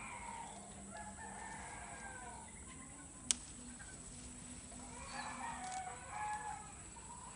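Two drawn-out animal calls, the first over the opening couple of seconds and the second about five seconds in, with a single sharp click between them.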